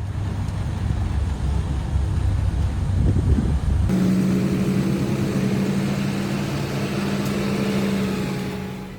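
Snowplow truck engine running: a deep rumble, then an abrupt change about four seconds in to a steady droning engine note.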